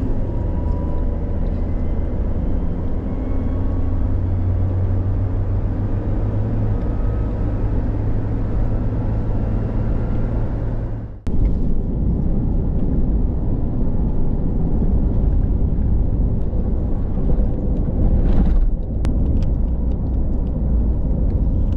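Steady low rumble of a car on the move, engine and road noise, with a brief dropout about halfway through.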